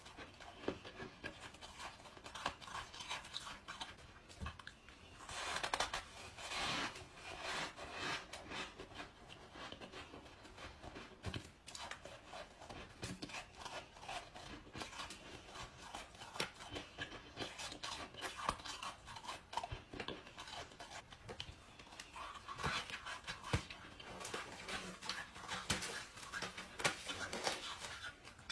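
A person chewing ice close to the microphone: a dense crackle of crunches, with louder bites a few seconds in and again near the end.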